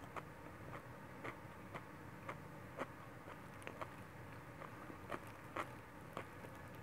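Faint, irregular wet mouth clicks of a person chewing a mouthful of noodles, about two clicks a second.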